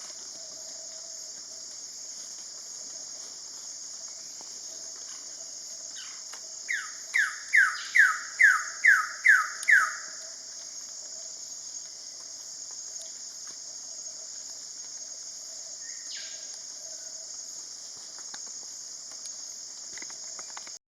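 Wilson's bird of paradise calling: a run of eight loud, downslurred notes, about two and a half a second, starting around a third of the way in. A steady high insect chorus hums underneath.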